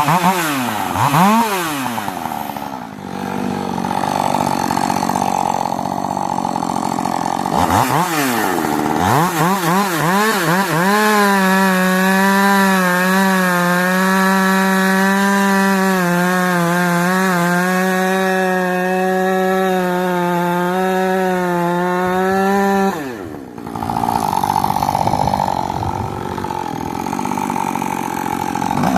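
Rebuilt Husqvarna 562 two-stroke chainsaw revving up and down and cutting into wood. In the middle it holds a steady high pitch at full throttle for about twelve seconds, then drops off briefly and goes back into the cut.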